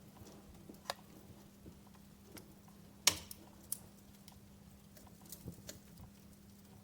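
Wood fire in a fireplace crackling: scattered sharp pops and snaps, the loudest about three seconds in.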